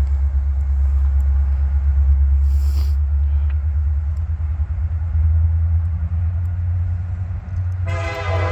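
Low, steady rumble of an approaching diesel freight locomotive, then its air horn starts sounding near the end as a chord of several tones.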